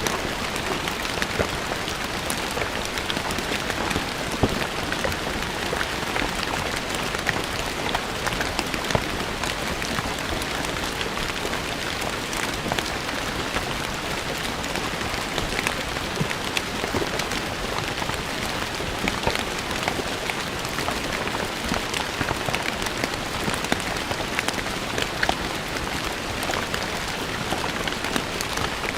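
Steady rain falling on stone paving, a dense patter of individual drops spattering on the hard surface.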